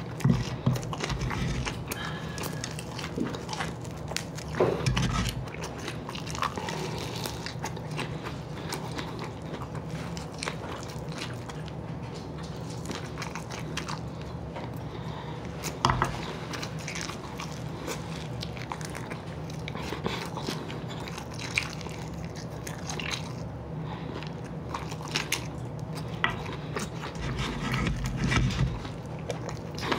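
Close-up eating of fried chicken wings: biting and chewing, with many small crisp clicks and a few louder crunches, over a steady low hum.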